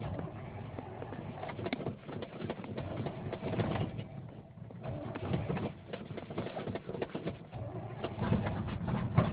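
Rebuilt 454 big-block Chevy V8 running rough and uneven just after catching on a cold start at 15°F, struggling to keep going.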